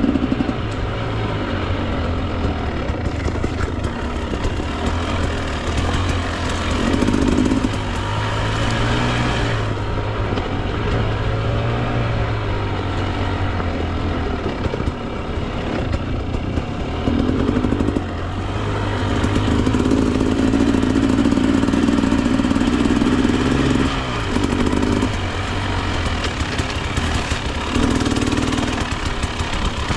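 Husqvarna TE 300 two-stroke enduro dirt bike engine running on the trail, its revs rising and falling as the throttle is worked. Louder throttle bursts come every few seconds.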